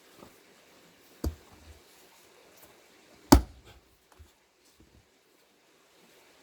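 Two sharp chopping blows into a plane tree log being split for firewood, the second about two seconds after the first and the louder. A faint knock follows.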